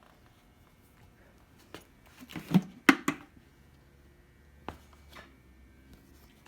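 Handling noises as a carburetor on a hook is brought to a bucket of carburetor chem dip: a few scattered knocks and clicks, the loudest pair about two and a half to three seconds in.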